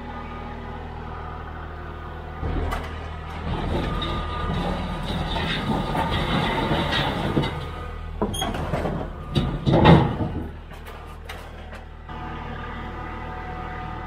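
An engine running steadily. From about two and a half seconds in, louder mechanical noise rises over it for several seconds, followed by a cluster of clunks and knocks, the loudest about ten seconds in.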